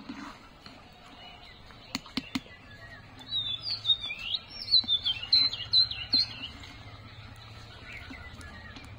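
A bird chirping a quick run of short, high, sliding notes from about three seconds in to past the middle. A couple of sharp knocks come about two seconds in, from the metal ladle against the aluminium pan as the pudding is stirred.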